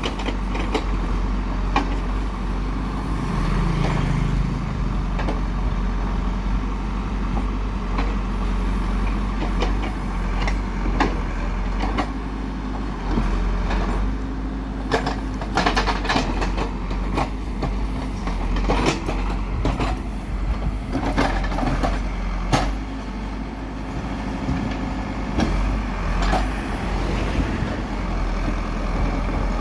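Heavy diesel construction machinery running steadily, with frequent sharp clanks and knocks over the engine.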